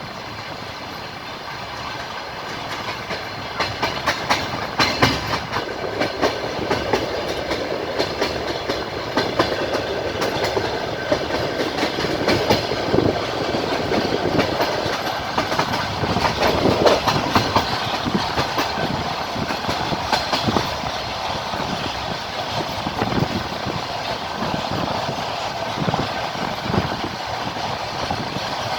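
Passenger train carriage running along the line, heard from inside at the window: a steady rumble with the wheels clacking over the rail joints, getting louder about three seconds in.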